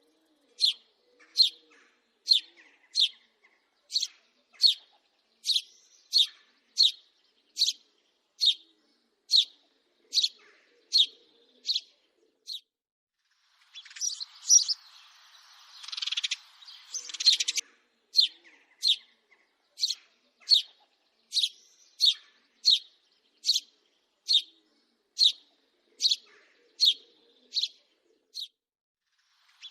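House sparrow chirping: short single chirps repeated at an even pace, a little over one a second, with a denser, harsher burst of chatter about halfway through.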